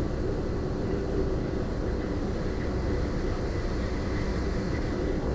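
Steady engine drone and hull rumble of a passenger ferry underway, heard on board, even and unchanging, with a faint high whine above it.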